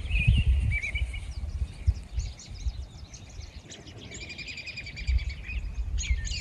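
Several birds singing and chirping, with a rapid trill about four seconds in, over a fluctuating low rumble.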